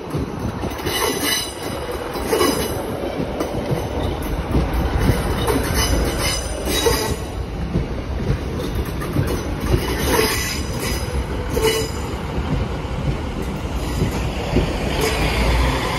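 ScotRail Class 156 diesel multiple unit running slowly past, with a low steady rumble from the train and its wheels. The wheels squeal sharply several times as they run through the pointwork, with some clicking over the rail joints.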